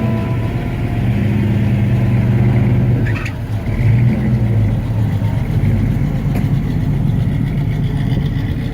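1988 Chevrolet Monte Carlo SS's V8 engine and exhaust running as the car pulls away, with a brief rise in revs about four seconds in.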